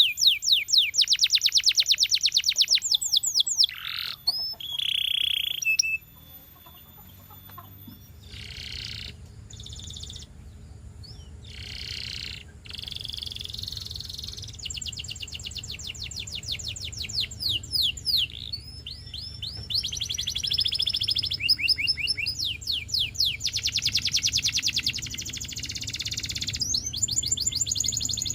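Canary singing: phrase after phrase of fast trills of repeated high notes, with short pauses between phrases. A quieter stretch about a quarter of the way in gives way to long, rapid rolls. A low steady hum sits underneath from about eight seconds in.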